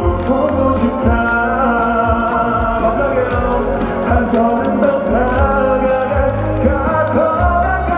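Live band music with a male singer's voice over bass and a steady drum beat.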